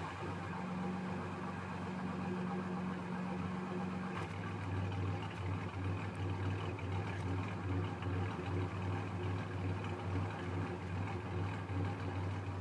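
A 1994 Ford 4.0L V6 idling roughly, its low running note pulsing unevenly. About four seconds in, a steady higher hum drops away and the uneven pulsing stands out more.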